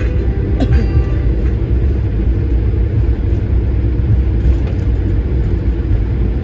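Steady low rumble heard inside the cabin of an Airbus A220-300 with its Pratt & Whitney PW1500G geared turbofan engines running, with a few light rattles about half a second in.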